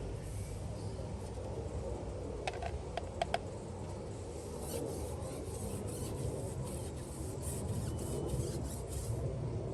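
Detailing brush rubbing tire shine dressing onto a rubber car tire, with a few light clicks about three seconds in and then repeated brushing strokes, two or three a second, through the second half.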